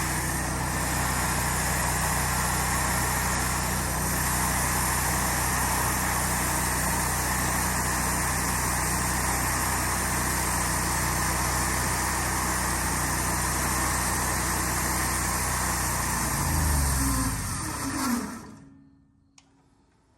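Portable sawmill's gasoline engine running steadily under load through a pine log, then winding down and dying about 18 seconds in: it stalled from fuel starvation because the fuel valve was left off.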